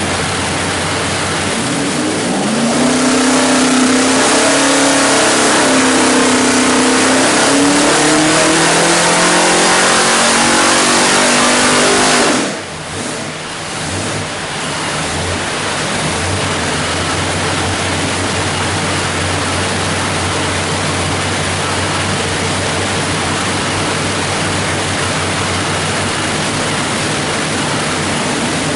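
408 cubic-inch stroker small-block Chevrolet V8 making a dyno pull: the engine note climbs steadily for about ten seconds, then drops sharply as the throttle is let off, and the engine runs on at a steady, lower speed.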